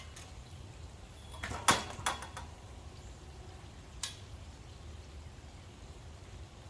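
A short cluster of sharp knocks or clatters about a second and a half in, the loudest near the start of the cluster, and one more single knock about four seconds in, over a low steady background.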